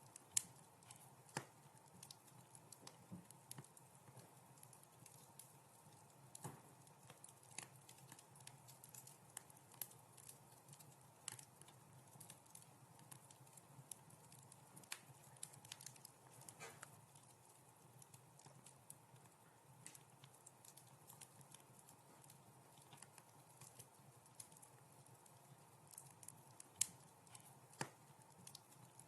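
Wood fire crackling in a fireplace: quiet, with irregular sharp pops and snaps over a faint steady low sound. The loudest pop comes about half a second in.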